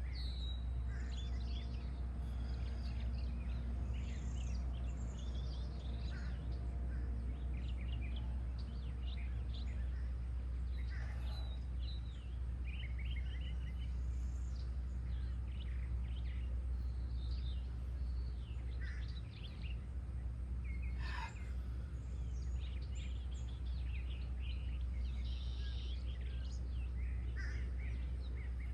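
Several wild birds singing and calling at once, with many short chirps and trills overlapping, over a steady low rumble.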